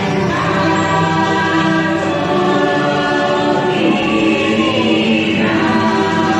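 Choir singing with musical accompaniment, in long held notes; a higher held note joins in about four seconds in.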